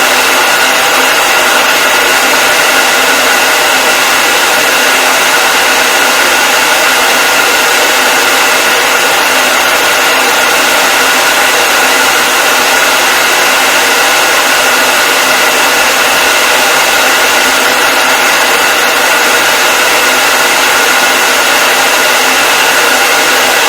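Hair dryer running continuously at a steady speed: an even, loud whooshing hiss with a faint whine of the fan motor, used as white noise for sleep.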